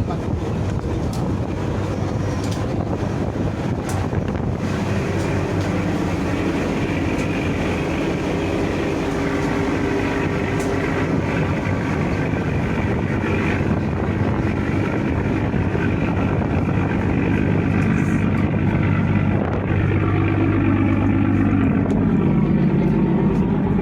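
Steady engine rumble and hum of a passenger ship under way, with a deeper drone that strengthens about five seconds in and again near the end.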